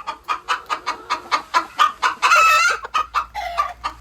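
Chicken clucking in a quick run of short clucks, about four a second, broken by one longer drawn-out squawk a little past halfway.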